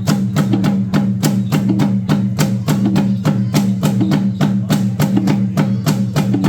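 Bamboo dance music: bamboo poles clacking together in an even rhythm, about four sharp knocks a second, over a steady drum beat.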